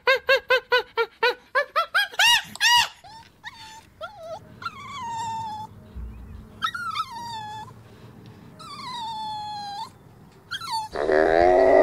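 A rapid run of short, arched animal calls, about four a second, for the first few seconds. Then a puppy whimpering in several drawn-out whines that fall in pitch. Near the end a loud, low humming call begins, of the kind alpacas make.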